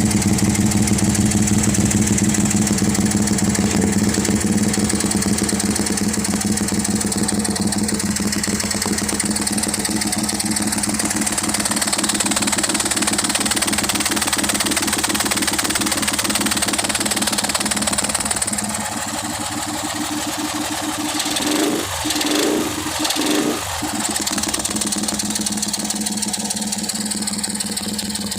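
Homemade two-cylinder engine built into a Honda GL motorcycle, running steadily at idle. It settles a little quieter about two-thirds through, then takes a couple of short throttle blips.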